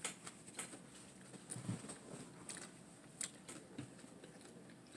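Faint chewing with soft, scattered mouth clicks, eating a lettuce wrap with a hamburger patty.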